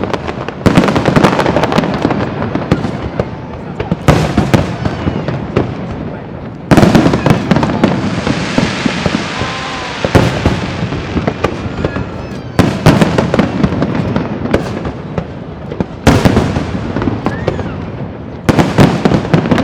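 Fireworks display: about six volleys of aerial shells, each starting suddenly with loud bursts and followed by dense crackling that dies away.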